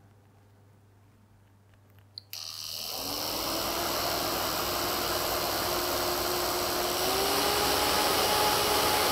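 Electric motor spinning up a 3D-printed fan: after a click about two seconds in, rushing air and a motor whine come on suddenly and rise in pitch over about a second, then run steadily, stepping slightly higher near the end.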